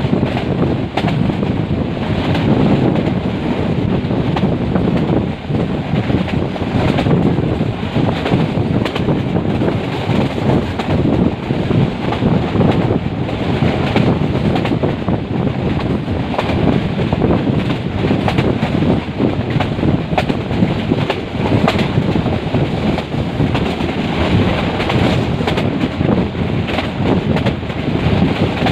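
Metre-gauge passenger train running at speed: a steady rumble with frequent clacks and rattles of wheels on rail joints, and wind buffeting the microphone.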